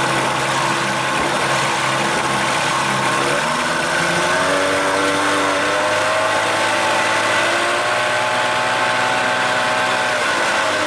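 1975 Evinrude 40 hp two-cylinder two-stroke outboard running low, then revving up about three and a half seconds in, holding the higher speed and dropping back near the end.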